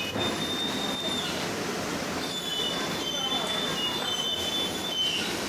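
Car wash equipment running: a steady hiss of spraying water with thin, high-pitched squealing tones that come and go.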